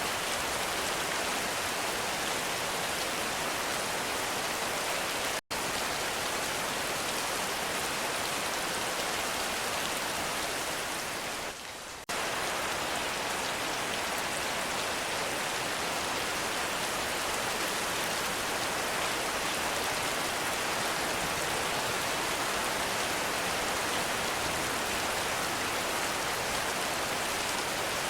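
Heavy rain falling in a steady, dense hiss. The sound cuts out for an instant about five seconds in and dips briefly near twelve seconds, like splices in the recording.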